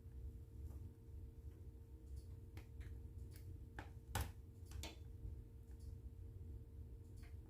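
Wood fire in a fireplace crackling: scattered sharp pops, about seven, the loudest just past the middle, over a low steady rumble and a faint steady hum.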